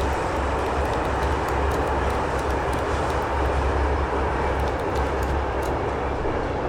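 Steady low rumble of a moving vehicle, with faint scattered ticks over it.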